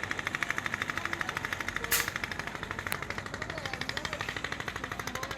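A steady, fast pulsing rattle, about ten pulses a second, with a sharp click about two seconds in and a fainter one a second later.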